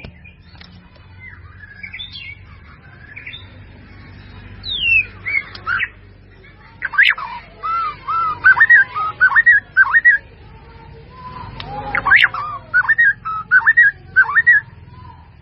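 White-rumped shama singing: soft chattering and gliding notes, then two loud runs of quick, looping whistled notes, one about halfway through and one near the end.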